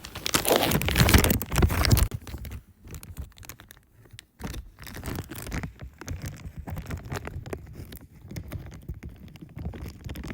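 Plastic Ziploc bag crinkling and rubbing right against the phone's microphone as the phone is sealed inside it. The rustling is loudest for the first two seconds, then goes on muffled and uneven.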